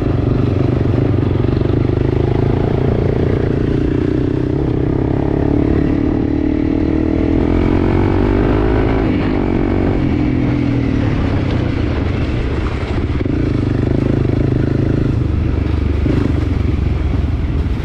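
Enduro motorcycle engine running while riding, its pitch rising and then falling back midway.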